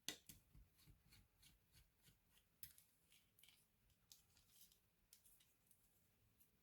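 Faint, irregular small clicks and light scraping of hands and tools working on a laptop's parts, with a sharper click at the start.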